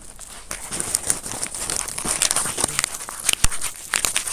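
Rustling and crinkling handling noise, with many irregular clicks and one sharper knock about three and a half seconds in.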